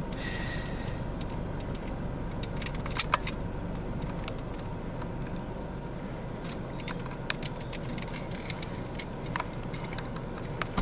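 Car engine idling with a steady low rumble, with a few scattered sharp clicks and handling knocks.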